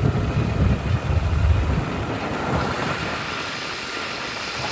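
Motorbike ride: wind rushing over the microphone over a low engine and road rumble, the rumble heavy for about the first two seconds, then easing to a steadier, lighter rush.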